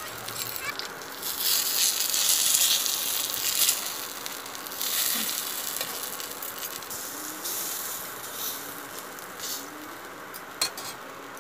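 Besan-battered pumpkin flower fritters sizzling in oil on a flat tawa. The sizzle is loudest in the first few seconds and again briefly about five seconds in, then settles to a softer steady hiss. There is one sharp tap near the end.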